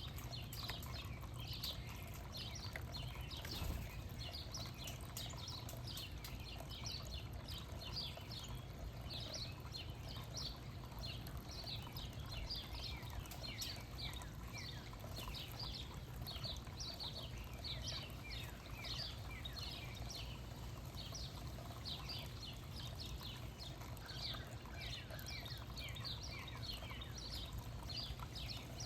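Backyard songbirds chirping continuously: many short, quick, downward-sliding chirps overlapping one another, over a steady low rumble.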